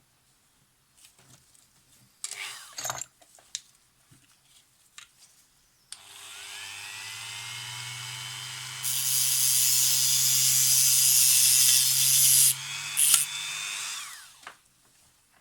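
Small high-speed rotary tool spinning up with a rising whine. It runs louder and hissier for a few seconds while working against something, then winds down. A brief clatter of handling comes a couple of seconds in.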